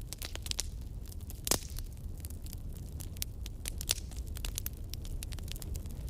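Campfire burning, the wood crackling and popping in irregular sharp snaps over a low steady rumble of the flames, with a louder pop about a second and a half in.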